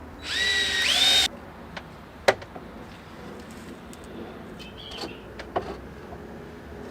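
Cordless drill-driver whining for about a second as it backs out a screw from the decking, its pitch stepping up just before it stops, followed by a few sharp knocks.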